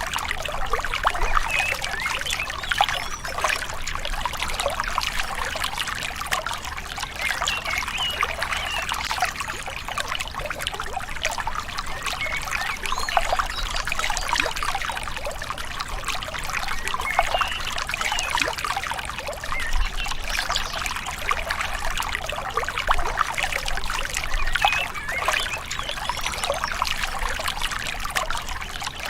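Shallow river water trickling and gurgling steadily over stones, a continuous babble of small splashes.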